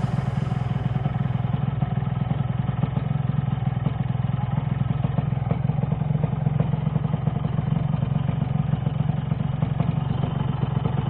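Yamaha RX-King's 135cc single-cylinder two-stroke engine running steadily, with a dense, even run of exhaust pulses and no revving.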